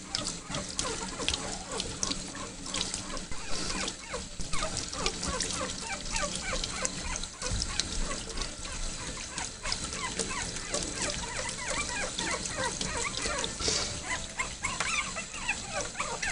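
Teacup poodle puppies whining and squealing in many short, rising-and-falling cries, upset at being bathed.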